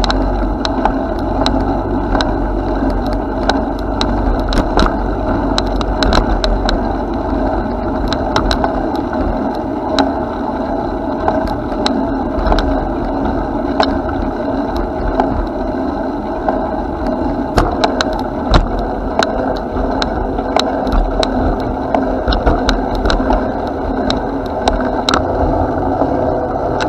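Bicycle riding along a path: steady rolling tyre noise with frequent sharp rattling clicks throughout.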